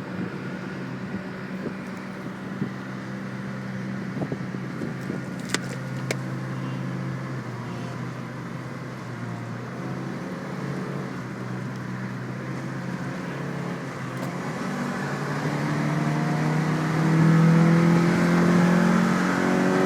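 Car engines pulling hard under acceleration: a steady engine drone that grows louder and climbs in pitch over the last few seconds.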